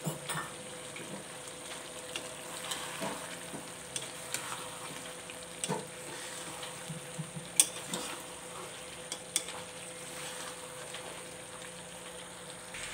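Diced potatoes frying in oil and masala in a metal kadai, a steady sizzle, with scattered clicks and scrapes of a metal spatula stirring against the pan, a couple of them sharper knocks.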